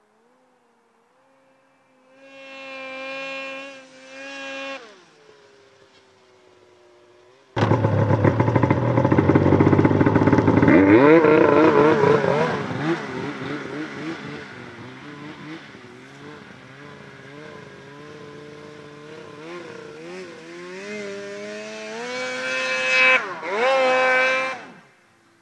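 2003 Polaris RMK 700 snowmobile's two-stroke twin engine running through an SLP exhaust with the muffler removed, being revved. A short rev comes about two seconds in; about seven seconds in it comes in suddenly loud, then settles to an uneven idle. Two sharp revs come near the end before it cuts off.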